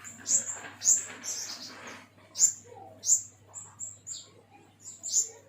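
Pentis kumbang songbird calling: a string of sharp, high chirps, each sweeping quickly downward, coming at irregular intervals.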